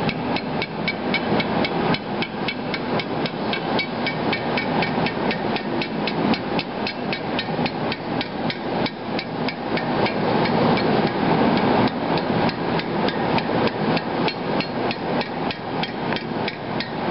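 Rapid, even hand-hammer blows on hot steel, about four a second, as the end of a machete's forged socket handle is rolled over into a rim. A steady rushing noise runs underneath.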